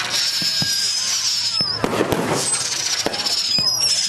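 Fireworks display: a rapid, uneven string of bangs and crackles, with high whistles from shells running through it.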